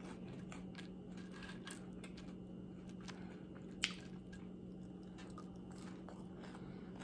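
Faint, close-up chewing of air-fried french fries: soft crunches and small wet mouth clicks, with one sharper click a little before four seconds in, over a faint steady low hum.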